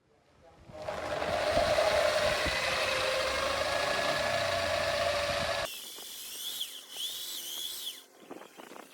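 A power tool running steadily as it works steel, with a held mid-pitched tone. A little under six seconds in it cuts off suddenly to a quieter machining sound with wavering high squeals and light clicks.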